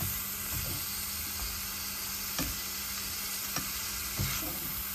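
Spiced boneless chicken cubes sizzling in oil in a frying pan while a spatula stirs them. A steady frying hiss runs throughout, with a few sharp ticks and scrapes of the spatula against the pan.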